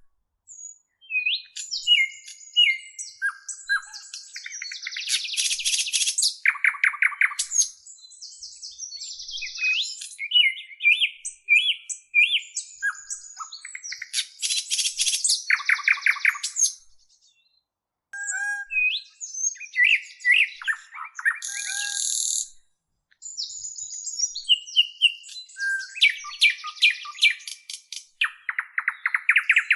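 Birds singing and chirping: a mix of fast rattling trills, sweeping whistled notes and high twittering. The sound cuts out completely for a moment twice, about two-thirds of the way through.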